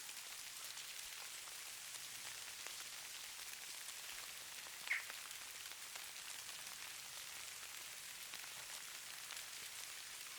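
Falling snow pattering steadily, a fine hiss made of many tiny ticks. A single brief high-pitched blip about five seconds in stands out above it.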